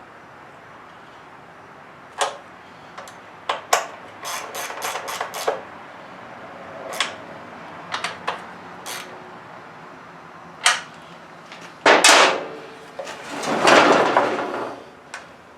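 Hand work on an engine: scattered clicks and knocks of tools and metal parts being handled, two louder knocks, then a longer scraping rustle near the end.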